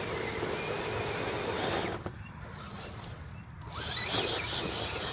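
Farm truck driving, its engine and road noise dropping away about two seconds in and picking up again about four seconds in.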